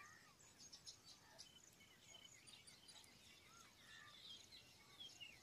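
Near silence with faint, scattered bird chirps and short whistles.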